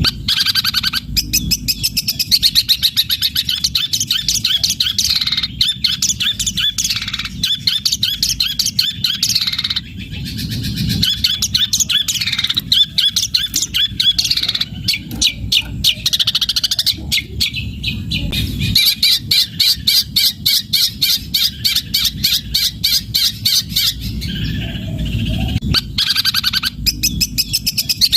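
Long-tailed shrike singing a long, rapid chattering song of quickly repeated high notes, its repertoire including mimicked Eurasian tree sparrow calls, with a couple of short breaks.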